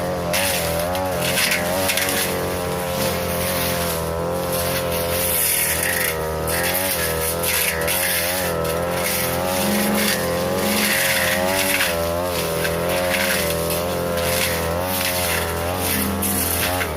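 42cc two-stroke brush cutter with a short metal blade running at full speed, its engine pitch wavering up and down as the blade bites into tall grass and woody saplings, with frequent short crackles from the cut stems.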